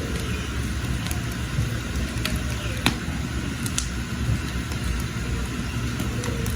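Wood fire burning under a cooking pot, with a steady low rumble and scattered sharp crackles and pops, the loudest pop about three seconds in.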